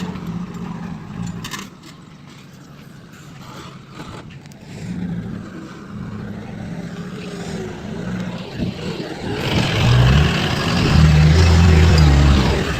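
Heavy machinery's diesel engine running, dropping back for a while and then growing loud again about ten seconds in.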